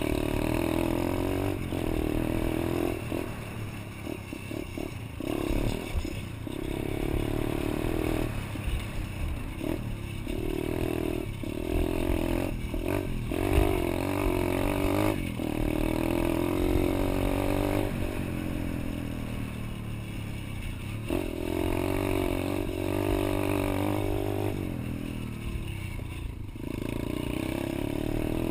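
Pit bike engine running under throttle, its revs rising and falling again and again as the bike is ridden.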